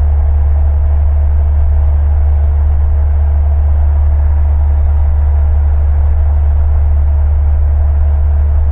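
Steady drone of a small single-engine piston airplane's engine and propeller, heard from inside the cockpit, with no change in pitch or level.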